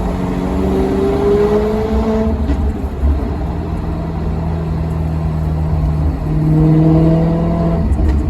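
Maserati Quattroporte Sport GT's V8 engine running with a deep rumble, its pitch creeping up in the first couple of seconds, then holding steady, and growing louder for a moment about six seconds in before easing back.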